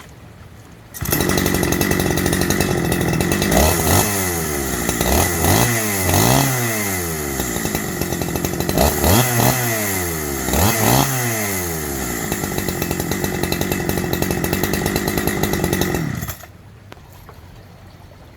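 Husqvarna 365 two-stroke chainsaw engine running, comes in suddenly about a second in, revved up and back down several times, then cuts out abruptly near the end.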